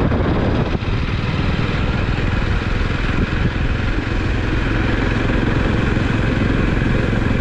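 Motorcycle engine running at a steady cruising speed, heard from the rider's own bike, with a steady rush of wind noise over it.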